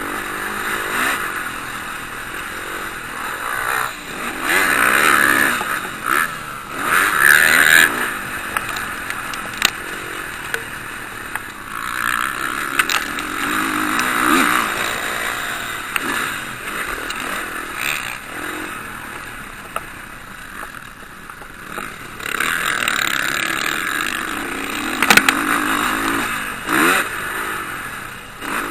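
Motocross bikes racing on a dirt track, their engines revving up and down as they pass. The loudest passes come about five to eight seconds in and again near the end.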